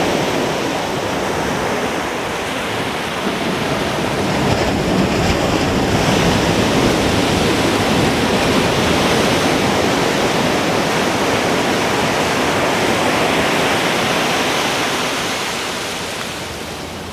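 Ocean surf breaking on a beach, a continuous rushing wash that swells in the middle and eases off near the end.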